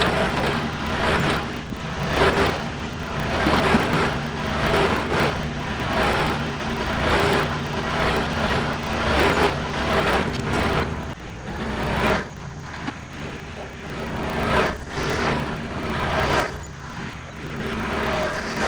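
John Deere 4052R compact tractor's diesel engine running steadily while pulling a Gannon box blade through loose dirt. A rough scraping noise rises and falls over it every second or two.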